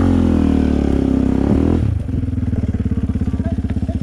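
Off-road enduro motorcycle engine revving, its pitch rising and falling, then settling about two seconds in to a steady, lumpy throbbing run.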